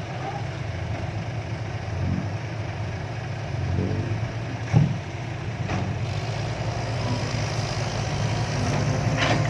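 Heavy diesel machinery engine running steadily, with a single sharp knock about five seconds in.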